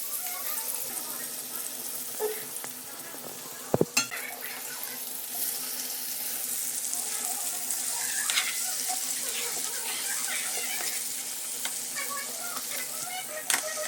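Hot oil sizzling steadily as food fries in a pan. There are two sharp knocks about four seconds in and another near the end.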